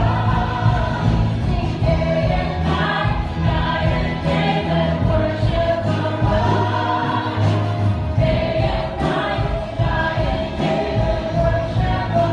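Congregational worship song: voices singing together over a steady instrumental accompaniment with bass and a regular beat.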